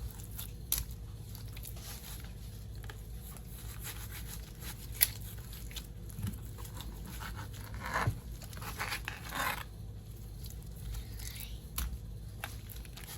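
Knife slicing raw chicken breast on a cutting board: scattered soft scrapes and knocks of the blade, over a steady low hum.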